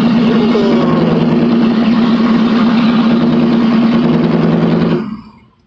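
5.3 L LS V8 in a Silverado pickup running at a steady idle, loud because it has no proper exhaust fitted yet. The sound fades out about five seconds in.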